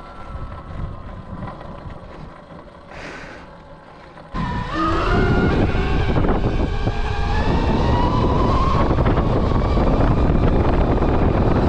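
Rawrr Mantis X electric dirt bike's motor whining while it is ridden, with wind buffeting the microphone. About four seconds in the sound jumps suddenly louder, and the whine then climbs slowly in pitch as the bike gathers speed.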